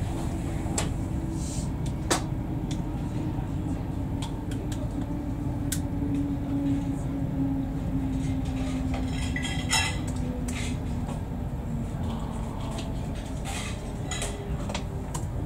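Cabin noise inside a Mark 4 coach hauled by a Class 91 electric locomotive: a steady low rumble from the wheels and running gear, with scattered clicks and rattles from the coach's fittings. A faint hum sinks slowly in pitch as the train slows into the station. Near the middle there is one short, brighter ringing rattle.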